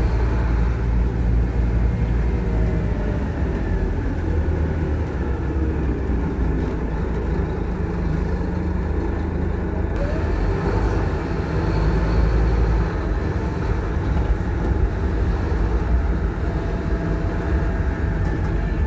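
Scania K230UB single-deck bus heard from inside on the move: a steady low diesel engine drone with road noise, and a few brief rising and falling whines as the engine speed changes.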